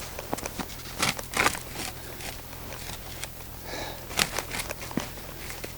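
Ice-coated saplings being bent and woven into a shelter frame: scattered sharp cracks and clicks with short bursts of rustling.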